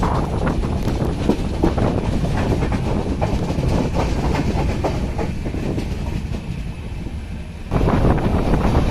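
Train running along the track with a steady rumble and the clickety-clack of wheels over rail joints. It gets suddenly louder a little before the end.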